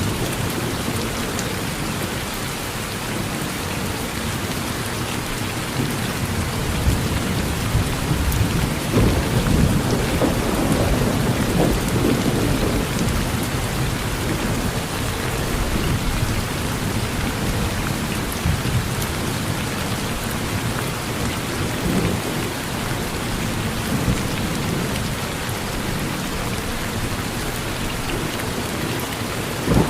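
Steady rain falling, with a low rumble of thunder that swells about a quarter of the way in, peaks near the middle, and fades.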